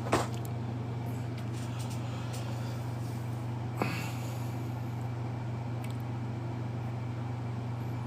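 A steady low hum, with two short knocks about four seconds apart and faint light rustling between them.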